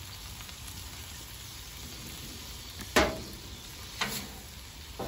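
Chicken pieces sizzling on a Blackstone flat-top griddle: a steady frying hiss. A metal spatula strikes and scrapes the griddle steel twice, loudly, about three and four seconds in.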